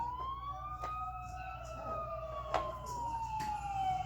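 Police sirens from a film soundtrack, played through a TV: several overlapping wailing tones, one rising and then falling slowly, with a few sharp clicks over them.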